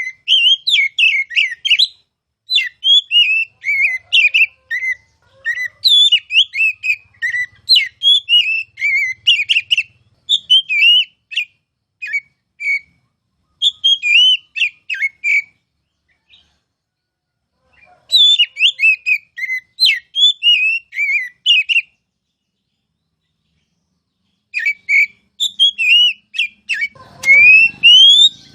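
Oriental magpie-robin singing in loud bursts of quick, varied chirps and whistles, broken by two pauses of a couple of seconds. Near the end come several long rising whistles.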